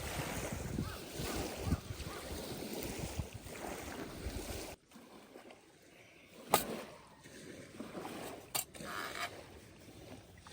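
Outdoor rushing noise of wind, which cuts off about five seconds in to a much quieter scene with two sharp clicks.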